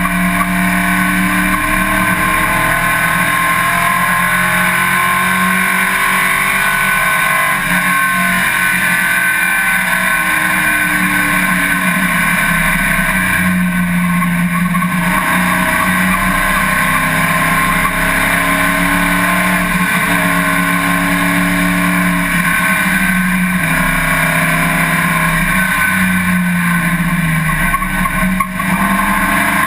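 Race car engine running hard and continuously, its pitch rising and falling slowly as it accelerates, shifts and slows.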